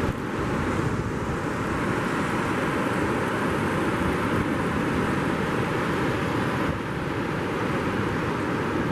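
Steady wind and surf on an open beach, with wind buffeting the microphone as a low, uneven rumble under an even hiss.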